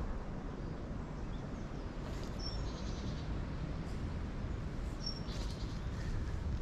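Woodland ambience: a bird gives two short, high chirps, about two and a half and five seconds in, over a steady low rumble.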